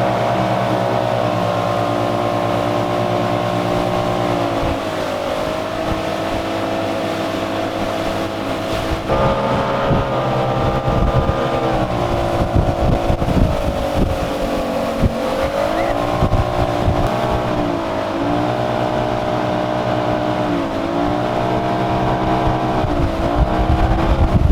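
Motorboat engine running under way, its note dipping and rising several times as the throttle changes. A rough low rumble joins in about nine seconds in.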